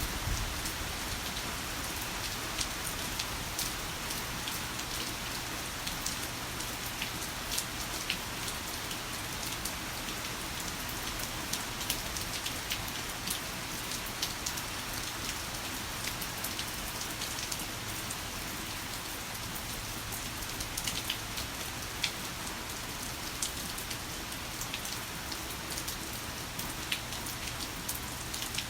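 Heavy rain falling steadily: a dense, even hiss with many small sharp drop ticks scattered through it.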